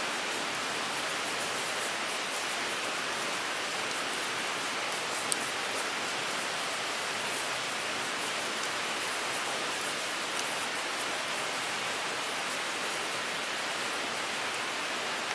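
Wood fire burning in a Picogrill 398 folding stainless grill: a steady hiss with many faint crackles and one sharp pop about five seconds in.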